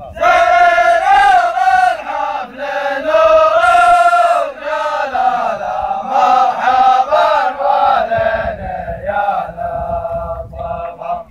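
Men chanting a zamil, the tribal welcome chant of Najran, in sustained melodic phrases that stop just before the end.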